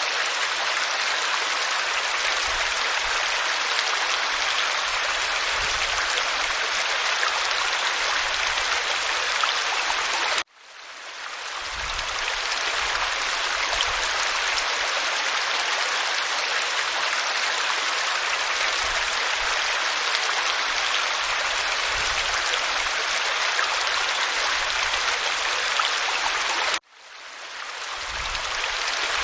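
Waterfall splashing onto rock: a steady, full rush of water. It cuts out abruptly twice, about a third of the way in and near the end, and swells back in over a second or two each time.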